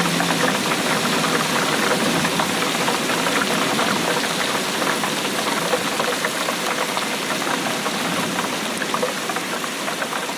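Steady rainfall: a dense, even patter of many drops.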